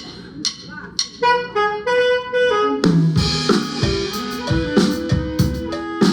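Guatemalan marimba band with drum kit starting a tune: a stepping melody line enters about a second in, and the drum kit and bass join with a steady beat about three seconds in.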